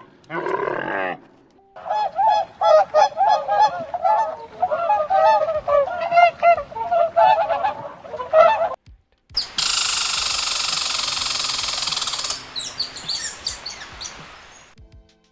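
A flock of birds honking: many short overlapping honking calls in quick succession for about seven seconds. Then a steady rushing noise for about three seconds, fading out with scattered clicks.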